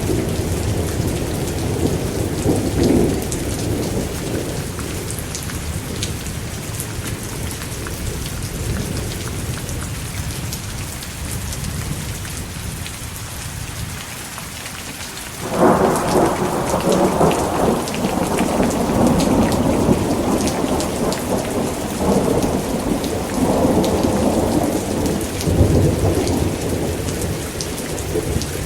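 Thunderstorm: steady heavy rain with rolling thunder. The rumbling dies down over the first half, then a sudden loud thunderclap breaks about halfway through and rolls on in several swells.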